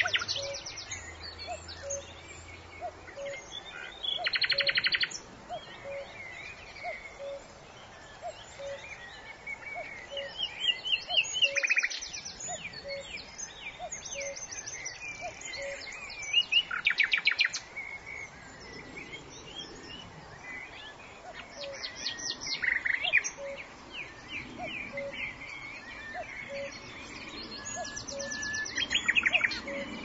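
Forest birdsong: short, rapid trills from several birds every few seconds over a soft low pip that repeats about once a second.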